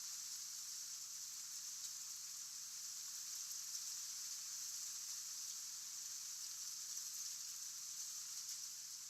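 Steady high-pitched hiss with a faint low hum underneath; no distinct bird calls stand out.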